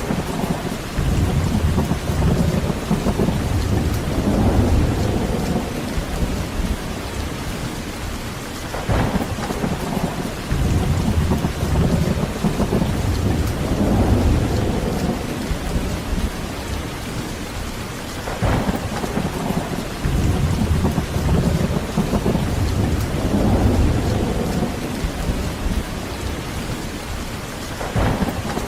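Heavy rain falling steadily with rolling thunder. A thunder crack followed by a long low rumble comes back about every nine to ten seconds, four times in all.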